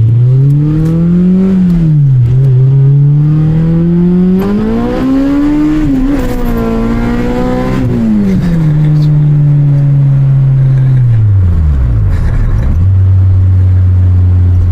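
Honda K24 inline-four engine in a swapped Civic pulling through the gears. Its revs climb, drop briefly at a gear change about two seconds in, and climb again to a peak around six seconds. Then they fall away, hold steady for a moment, and settle to idle near the end.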